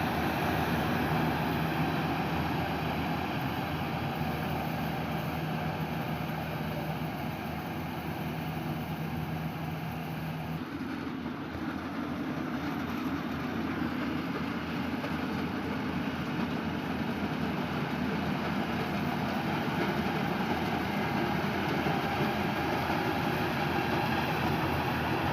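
Engine-driven harvest machinery running steadily, with a low hum that drops out about ten seconds in while the broad machine noise carries on.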